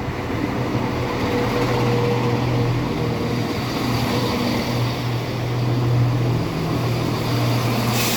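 Class 170 Turbostar diesel multiple unit coming into the platform, its underfloor diesel engines giving a steady low drone that grows louder in the first second. A sudden hiss comes in near the end.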